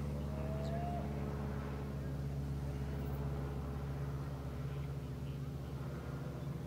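Steady low mechanical hum with an even stack of tones, with a short rising whistle about half a second in.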